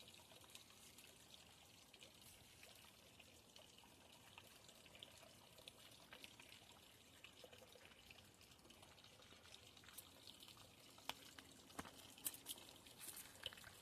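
Faint trickling water, with a few light clicks near the end.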